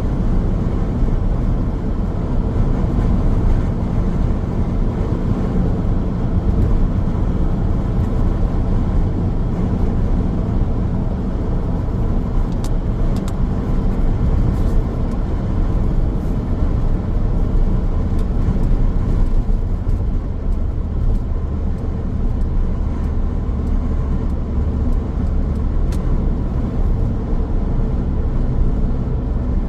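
Car driving along a road: a steady, unbroken rumble of tyres and engine.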